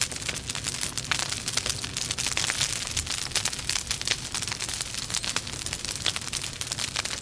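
Wood logs burning in a fireplace, crackling with a dense, irregular run of sharp pops and snaps over a steady hiss.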